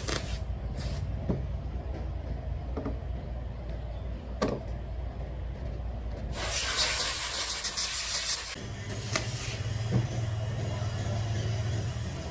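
Hissing bursts of a pressurised air or spray jet: a short one near the start, then a strong one about two seconds long from about six seconds in. They play over a steady low hum, with a few faint knocks between them.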